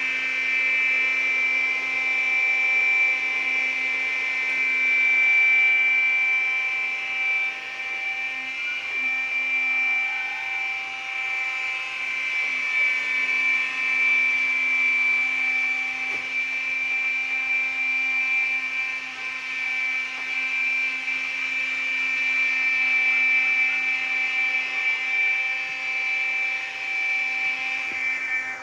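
iRobot Scooba 390 floor-scrubbing robot running its cleaning cycle: a steady motor whine with a high note over a lower hum, its loudness wavering slightly as it moves.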